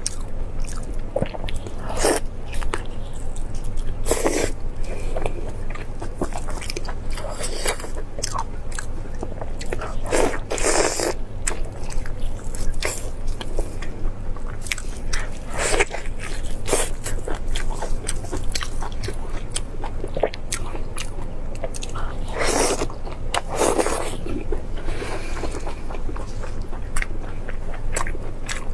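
Close-miked eating: crunchy bites and chewing, with sharp crunches coming irregularly and a few longer, louder crunching bites, over a steady low hum.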